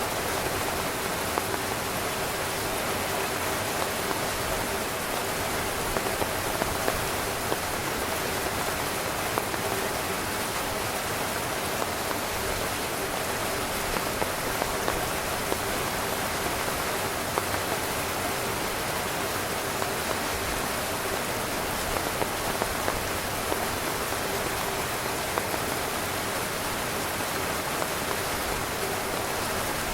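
Steady heavy rain drumming on a tent's fabric, a dense even hiss with many individual drops pattering sharply on top.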